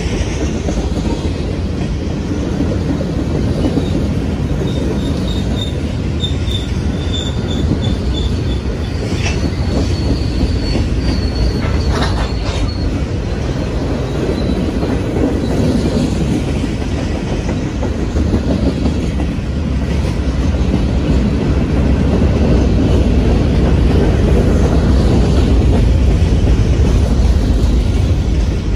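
Freight train cars rolling past on the rails with a steady, loud rumble. Thin, high-pitched wheel squeals come and go about a third of the way through.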